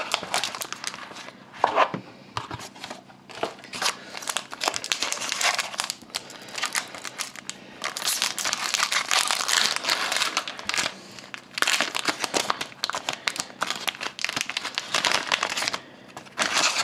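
Wrapper of a hockey card pack being torn open and crinkled by hand: irregular bursts of crackling rustle, coming and going in clusters.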